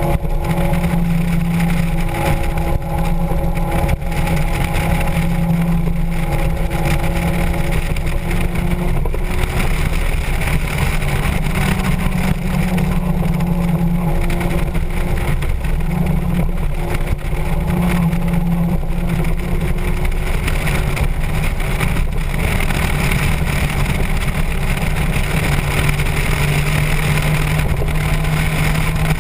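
Motorcycle engine running at a steady cruise, its note holding level with small rises and falls in pitch.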